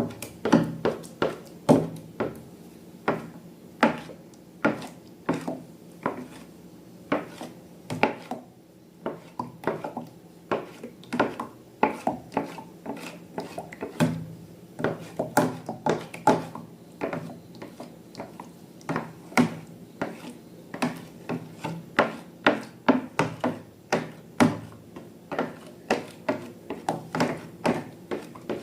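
Irregular sharp taps and clicks of hard objects knocking together, two or three a second, over a faint steady hum.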